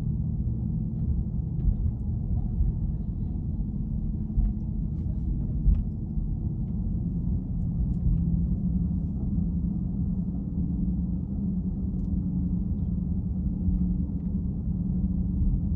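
Steady low rumble of a car being driven, engine and tyre noise sounding muffled, with a few faint clicks.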